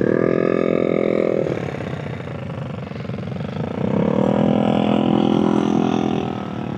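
Motorcycle engine revved twice, each rev rising and then held steady, the first for about a second and a half and the second for about two and a half seconds, settling back between them.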